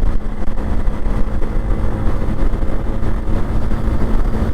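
Motorcycle engine running steadily while riding, a low even drone with a faint steady hum, under a heavy rumble of wind on the microphone.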